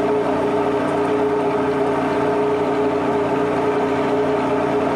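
Steady engine drone, holding one even pitch with no change in speed or loudness.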